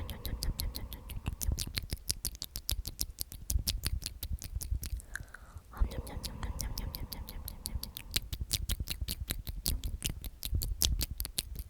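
Close-miked whispered repetition of "omnomnom", full of rapid wet mouth clicks and lip smacks, with a brief pause for breath midway.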